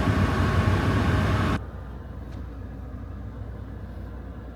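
A steady rushing noise over a low hum, cut off abruptly about a second and a half in, leaving only a quiet low hum.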